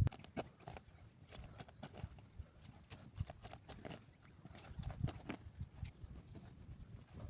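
A run of irregular knocks and clicks, a few a second, with a sharper knock right at the start.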